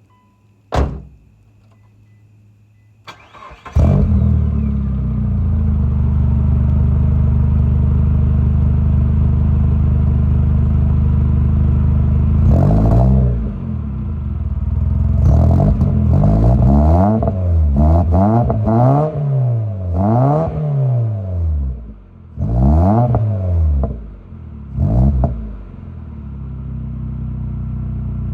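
Mitsubishi Eclipse engine cold-starting: after a short crank it catches about four seconds in and settles into a steady fast idle. From about halfway it is revved again and again in short blips, each rising and falling, then drops back to a steady idle near the end. A brief loud noise comes under a second in, before the start.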